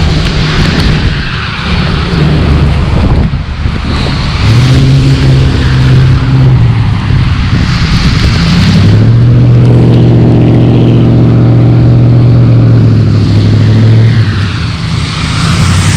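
A motor vehicle's engine running close by: a steady low hum from about four seconds in until near the end, over a constant hiss of wind and wet street noise.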